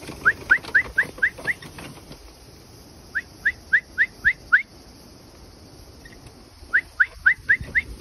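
A bird calling: three runs of about six quick, rising whistled notes, the runs a couple of seconds apart.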